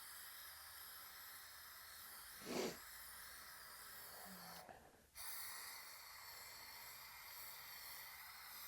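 Faint steady hiss of room tone, broken about two and a half seconds in by one short, sharp breath or sniff. Near the five-second mark the background briefly drops out and then resumes.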